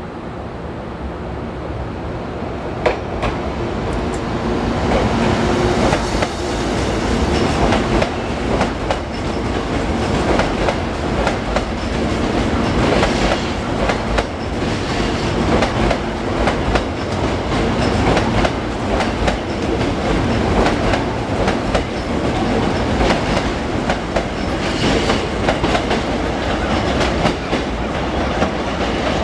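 Hankyu electric train running along the track, its wheels clicking rhythmically over rail joints and points. It grows louder over the first few seconds, then keeps on at a steady level.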